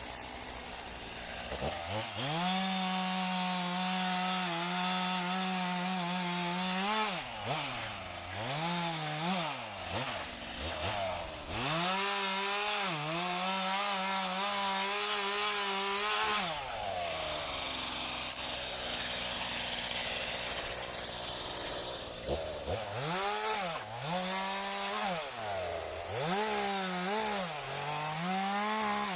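Two-stroke chainsaw cutting dead white elm. It is held at full throttle for several seconds at a time and blipped in short revs in between. About halfway through it drops to idle for a few seconds, then revs again.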